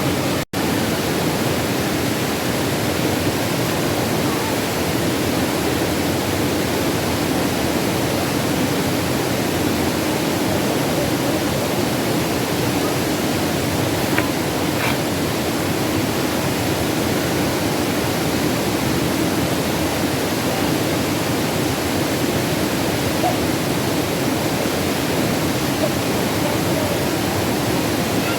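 Steady rushing of flowing river water, a continuous even wash. It cuts out for a split second about half a second in.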